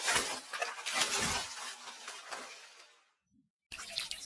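Clattering, clinking sound effects over a hiss, fading away, then a cut to dead silence for under a second before the noise comes back.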